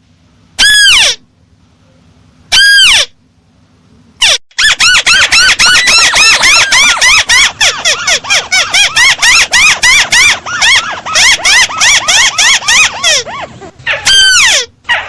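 Recorded lure call of the burung tikusan (crake). Loud, squealing notes, each rising and falling in pitch: two single calls, then a long rapid run at about five notes a second, then single calls again near the end.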